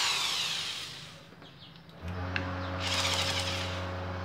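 Chuck of a Bosch GSR 7-14 E corded drill/driver being turned by hand to fit a high-speed-steel drill bit, in rasping bursts. A steady low hum starts about two seconds in.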